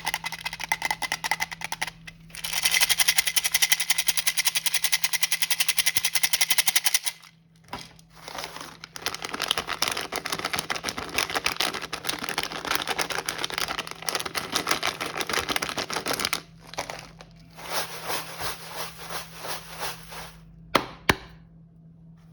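Packaging being handled: dense, rapid crackling in long stretches with short pauses, typical of crinkled plastic wrapping, ending with two sharp clicks.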